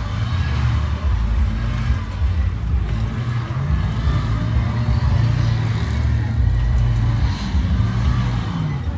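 A motor vehicle's engine running with a continuous low rumble, its pitch drifting slightly up and down.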